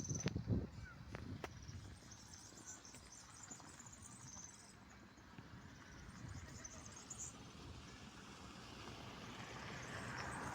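Outdoor ambience with faint high insect chirping. Wind buffets the microphone in the first second, and a vehicle approaches, growing louder near the end.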